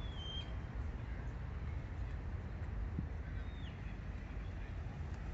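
Outdoor ambience of a few short bird whistles over a steady low rumble. One call comes right at the start, and a falling call about three and a half seconds in.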